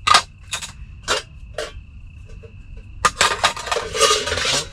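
Metal mess-tin pans knocking and clinking together as they are handled: four sharp clinks, then about a second and a half of denser clattering and rustling near the end.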